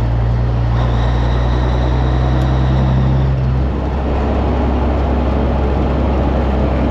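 Diesel semi-truck engine pulling hard under load, loud and droning in the cab. There is a slight drop in level and a change in the drone about three and a half seconds in.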